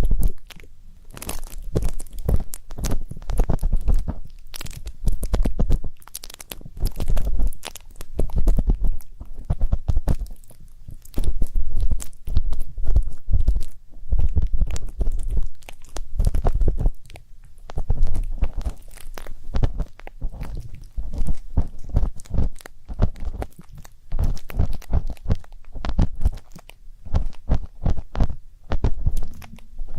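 Ear pick scratching and rubbing close to the microphone for ASMR ear cleaning: a dense run of crackly scrapes with deep muffled thumps, coming in waves with brief lulls.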